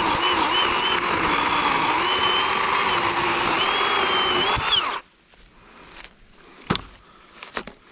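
Worx WG384.9 40-volt cordless electric chainsaw with an 18-inch Oregon bar, cutting up through a downed tree trunk from underneath. Its motor whine wavers and dips as it loads in the wood, then stops abruptly about five seconds in. A couple of sharp knocks follow near the end.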